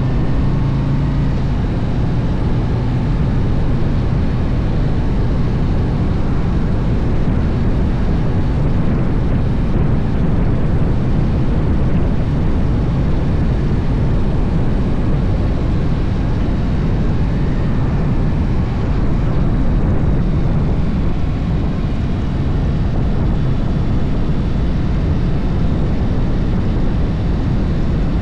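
Harley-Davidson V-twin motorcycle riding steadily at speed, with a constant rush of wind over the microphone and the low rumble of the engine.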